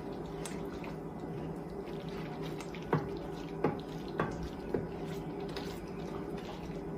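Four short liquid plops, about half a second apart, over a steady low hum.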